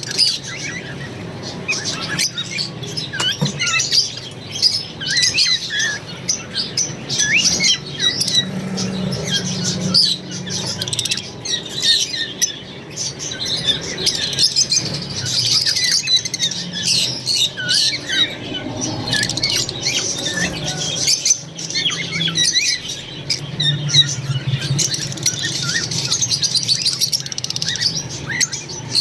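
A group of green Fischer's lovebirds chirping and squawking over one another, a dense, unbroken chatter of short, high calls.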